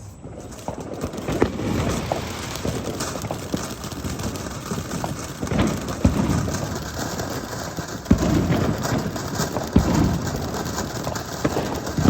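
A lit consumer firework going off with a dense, continuous crackle of many small pops. There are louder bangs about 8 and 10 seconds in.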